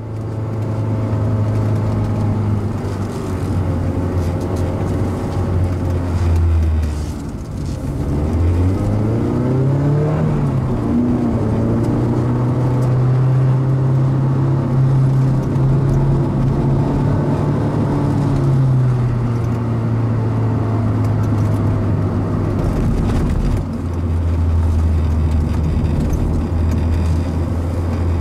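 Mazda NC Roadster's stock 2.0-litre four-cylinder engine at circuit speed, its note rising and falling with throttle and gear changes: it drops about a quarter of the way in, climbs back and holds high for about ten seconds, then falls and steadies, with a short lift near the end.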